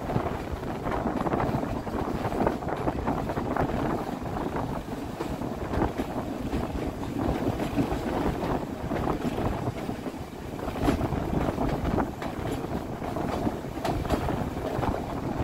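Steady rumble of a moving narrow-gauge passenger train running along the rails, with wind buffeting the microphone and a few faint clicks late on.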